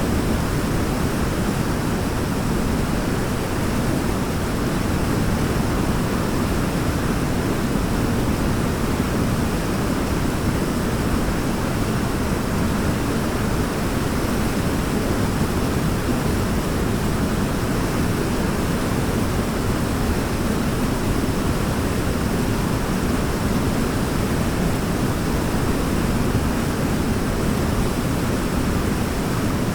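Waterfall: a steady, even rush of falling water, heaviest in the low range, with no breaks or changes.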